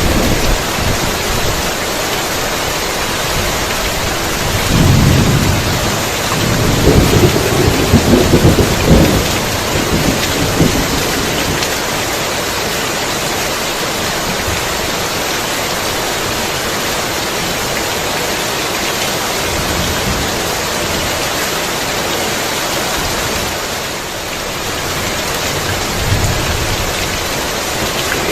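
Heavy rain falling steadily, with thunder rolling in low rumbles: one about five seconds in and a longer, louder one from about seven to eleven seconds in.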